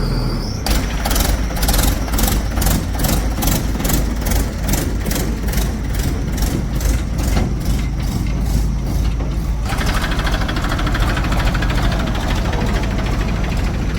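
Heavy diesel engine running, with a rhythmic pulsing of about two beats a second for most of the first ten seconds, then settling into a steadier note.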